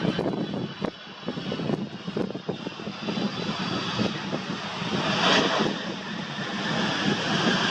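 Jet airliner engines running loud as a large jet goes by, with the hiss swelling about two thirds of the way in. Gusty wind buffets the microphone with irregular thumps.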